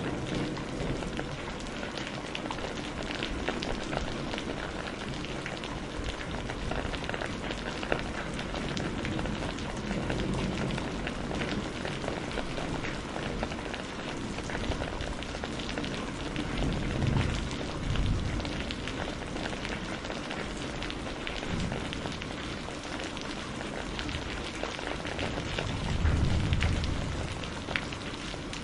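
Steady rain falling, with low rumbles of thunder swelling about halfway through and again, loudest, near the end.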